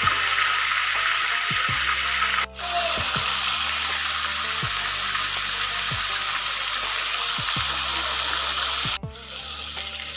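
Food sizzling and frying in hot oil, a steady loud hiss, broken off twice by edit cuts and a little quieter after the second, over soft background music.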